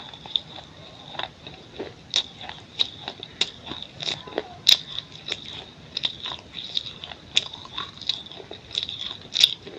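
Pieces of a baked clay pot bowl being bitten and crunched between the teeth, with crisp cracks coming about one and a half times a second.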